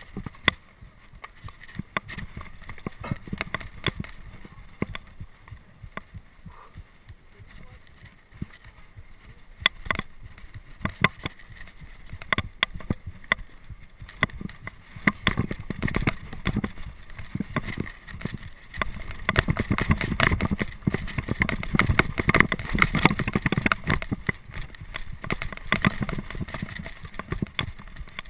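Mountain bike rattling and clattering hard over rough, rocky ground on a fast descent, with dense irregular knocks and a low rumble that grows louder from about halfway through.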